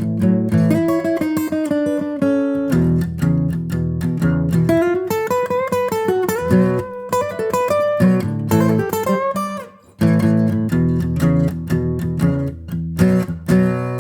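Music: acoustic guitar playing a plucked melody over strummed chords.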